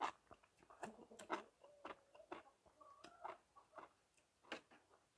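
Soft, scattered wet clicks and smacks of a person chewing a mouthful of noodles with mouth closed, a few every second.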